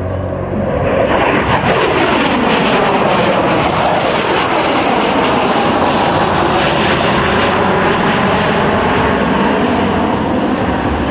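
Dassault Mirage 2000D fighter jet flying past, its jet engine noise swelling about a second in and staying loud, with the whooshing shifting tone of a moving jet.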